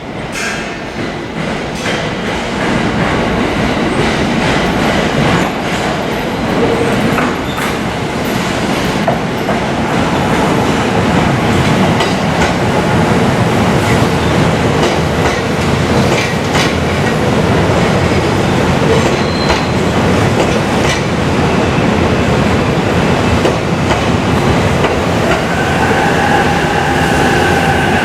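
A train running into the station, its wheels clattering over the rail joints and growing gradually louder. Near the end a steady whine comes in.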